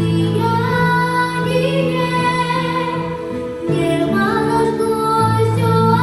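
A woman singing a slow song with long held notes over sustained accompaniment chords.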